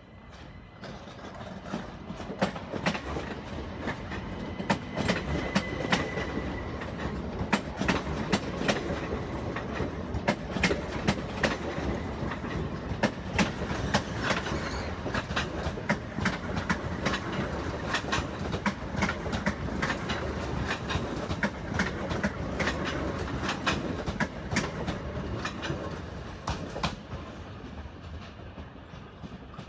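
Southern multiple-unit passenger train running past close by, its wheels clicking rapidly and irregularly over rail joints and points above a steady rumble. The sound builds over the first couple of seconds and fades near the end as the train draws away.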